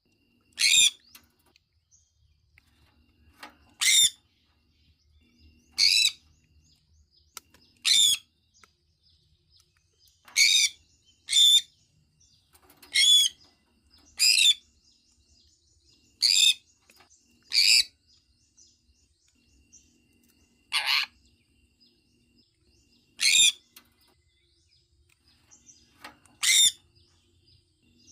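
Sun conure calling: about thirteen short, high chirps given one at a time, one to three seconds apart, with quiet between them.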